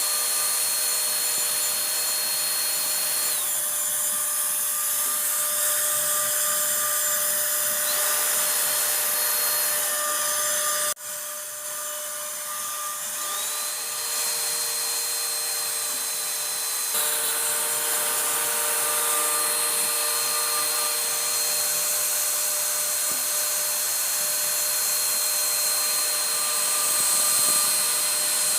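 CNC router spindle running with a steady high whine over a hiss of cutting wood. Its whine drops in pitch a few seconds in and glides back up just after the middle, with a brief break near the middle.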